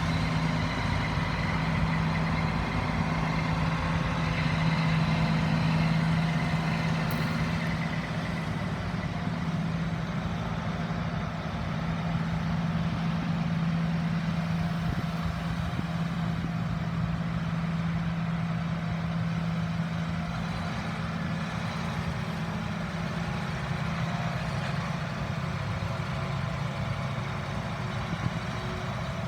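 Farm tractor engines running as tractors drive past in a slow procession, a steady low engine drone that eases off about two-thirds of the way in.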